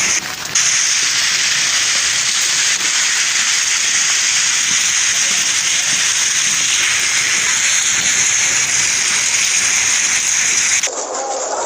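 Heavy storm rain pouring down in a steady, loud hiss. Near the end it cuts abruptly to a duller, quieter recording.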